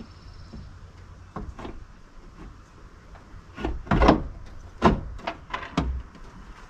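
Knocks and clunks of work on a steel tailgate table and its mounting hardware being fitted to a tailgate: a few faint taps, then from about halfway a run of sharper knocks, the loudest two under a second apart.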